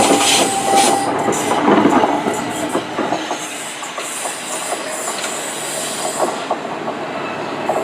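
Two coupled Class 377 Electrostar electric multiple units departing, wheels clattering over rail joints and points. A thin steady squealing tone fades away in the first couple of seconds, and the rail noise eases after about three seconds.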